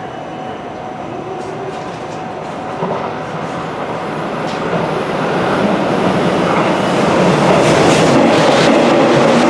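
Hanshin Railway electric train approaching the station at speed to pass through without stopping, its running noise growing steadily louder, with wheels clacking over the rail joints near the end.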